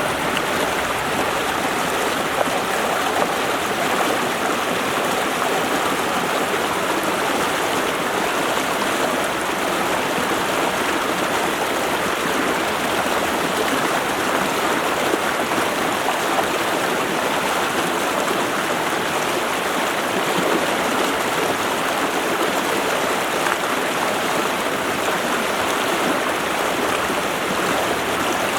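A mountain stream running steadily over rocks, a continuous rushing of water without breaks.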